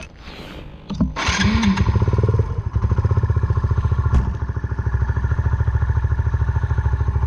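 Single-cylinder motorcycle engine coming to life about a second in, revving briefly, then idling with a steady, even beat.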